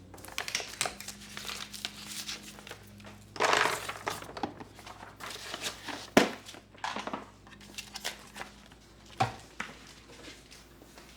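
Things being handled at close range: crinkling and rustling, with a longer rustle about three and a half seconds in. A few sharp clicks and knocks come through, the loudest about six seconds in.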